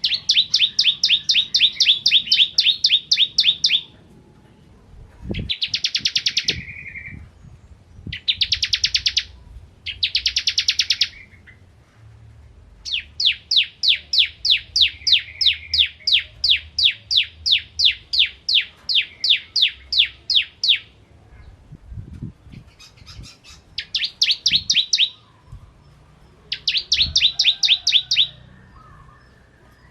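Bar-winged prinia (ciblek) singing its 'kristal' song: trains of sharp, evenly spaced chip notes, several a second, in bursts of one to eight seconds with short pauses between.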